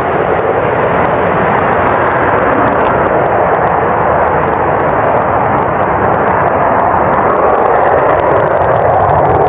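Fighter jet engine noise: a loud, steady rushing sound that holds evenly.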